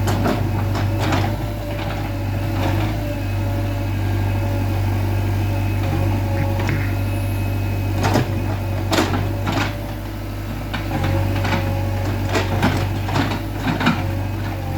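JCB 3DX backhoe loader's diesel engine running steadily under work, with a string of short clanks and knocks from the machine as it works, more frequent in the second half.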